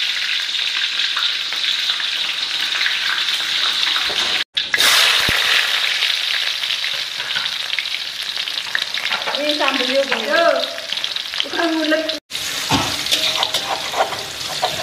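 Red chilies frying in hot oil in a wok, a steady loud sizzle. Near the end the sound changes to a rougher scraping as the chilies are crushed with a stone pestle on a stone mortar for sambal.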